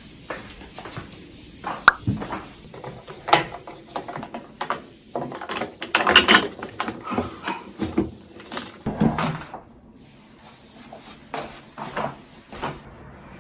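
Irregular knocks, clicks and rubbing of household objects being handled during cleaning, busiest about halfway through.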